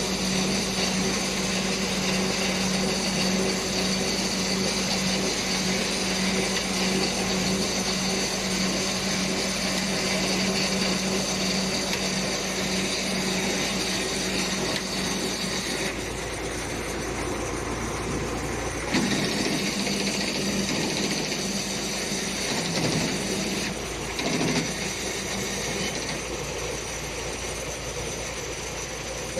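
Heavy machinery engine running steadily, with a constant hum and a high whine. The sound shifts about 16 seconds in, and there are a few knocks later on.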